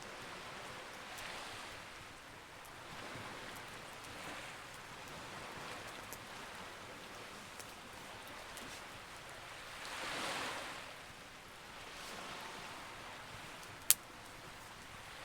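Sea waves washing in slow, rising and falling swells, the largest about two-thirds of the way through, with the scattered small crackles of a campfire and one sharp pop near the end.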